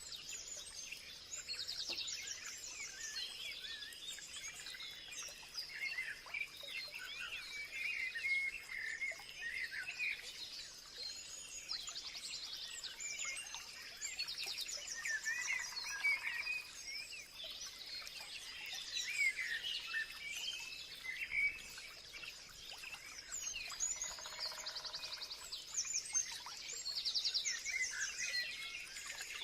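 Many songbirds calling at once: overlapping chirps, whistles and rapid trills, with a steady faint high tone underneath. Twice a short lower buzzy call joins in.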